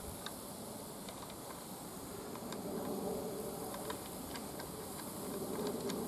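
Steady buzzing hiss of the gas burner heating the Mamod SP8 model steam engine's boiler, with faint scattered ticks, as the boiler builds back up to full pressure.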